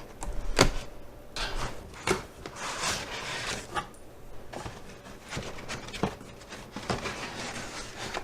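A cardboard box and its packaging being opened and handled: scraping and rustling with irregular sharp clicks and knocks.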